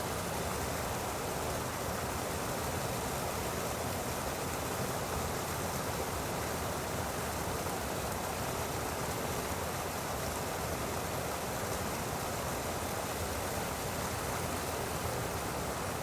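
Water gushing steadily from an artesian well that is overflowing after days of heavy rain: an even, unbroken rushing.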